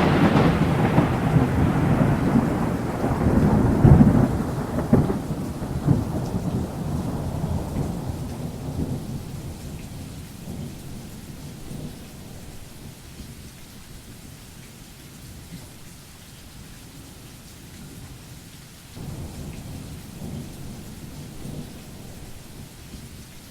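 Thunder rolling and rumbling in a heavy rainstorm, the rumble fading slowly over about ten seconds over steady rain, with a second, fainter roll of thunder near the end.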